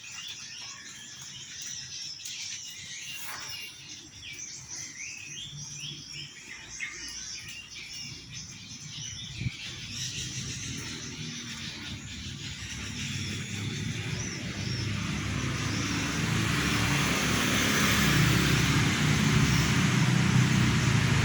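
Small birds chirping in quick, short calls, thinning out midway. Then a motor vehicle approaches, its engine and road noise growing steadily louder through the second half until it drowns the birds.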